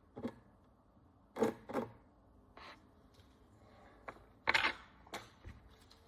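Short, irregular scrapes and clicks of a small hand tool working at the encrusted surface of a Roman bronze coin as the crust is picked away. The loudest stroke comes about four and a half seconds in.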